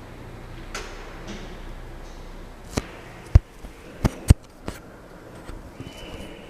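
Swing-door passenger lift: a low steady hum, then a run of sharp mechanical clicks and knocks about three to four and a half seconds in, two of them loud. This fits the lift's door lock and swing door working.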